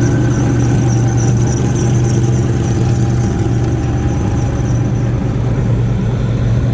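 A classic car's engine running steadily at low speed as it rolls in, with a steady high-pitched whine on top.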